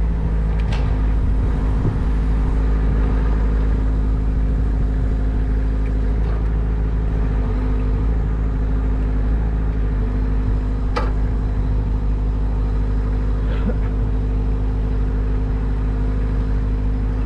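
An engine running steadily at constant speed, with a few sharp clicks about a second in and again past the middle.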